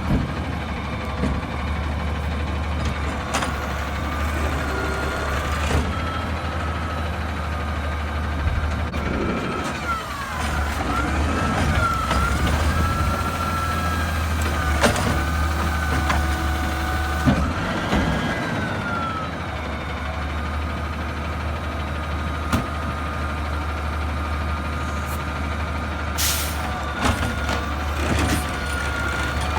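Garbage truck's diesel engine running steadily under load, with a whine that rises and falls in pitch in the middle and scattered metallic knocks.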